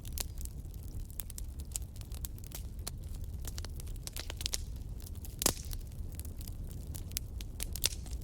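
Wood bonfire crackling, with frequent small snaps and pops from the burning wood over a steady low rumble of the flames. A louder pop comes about halfway through, and another near the end.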